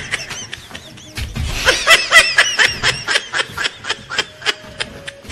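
High-pitched laughter in quick, choppy pulses, loudest from about one and a half to three seconds in, over a run of sharp clicks or slaps about three or four a second.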